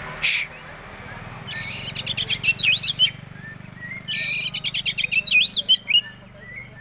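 Oriental magpie-robin (kacer) singing. A short harsh note comes just after the start, then two long phrases of rapid notes and rising-and-falling whistles, the first about a second and a half in and the second about four seconds in.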